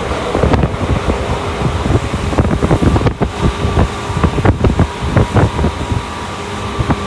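Commuter electric train running, heard from inside the carriage: a continuous rumble of wheels on rails with frequent irregular clicks and knocks, under a faint steady hum.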